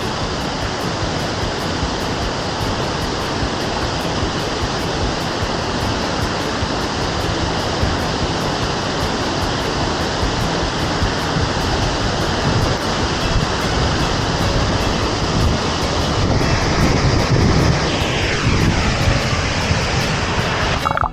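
Steady rush of water from a clear mountain creek and waterfall. Near the end a sound slides down in pitch over a second or so.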